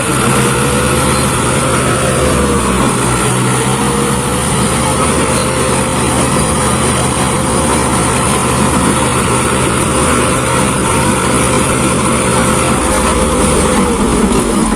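A diesel tractor engine running steadily and loudly, its pitch dipping briefly about two to three seconds in before it settles again.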